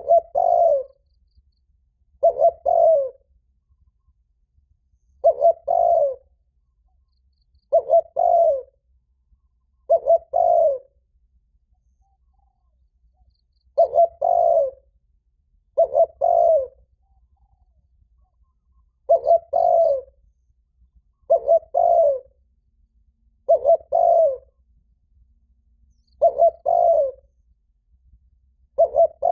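Spotted dove cooing loudly, the urgent repeated 'thúc' call: short phrases of two or three quick coos, about a dozen of them, repeated every two to three seconds with one longer pause midway.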